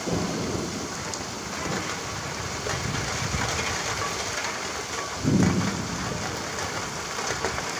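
Steady rain falling, with low rumbles of thunder, the loudest about five seconds in.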